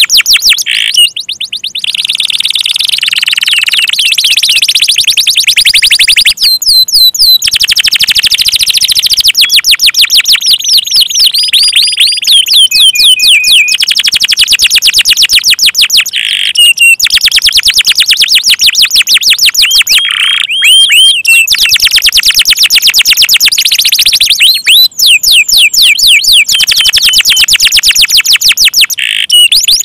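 Domestic canary singing loudly in long, fast trills of rapidly repeated high notes and sweeping chirps, broken by a few short pauses.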